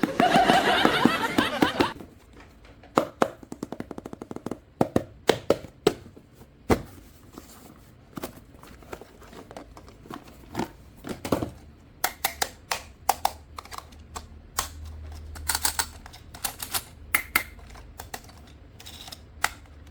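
Irregular sharp clicks and taps of hard objects being handled, coming in quick runs in the second half. A louder, noisier rustle fills the first two seconds.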